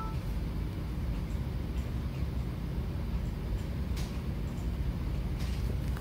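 Steady low background rumble, with faint clicks about four and five and a half seconds in.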